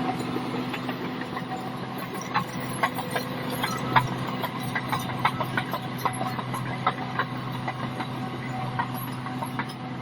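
Bulldozer's diesel engine running steadily, with irregular sharp metallic clicks and clanks over it.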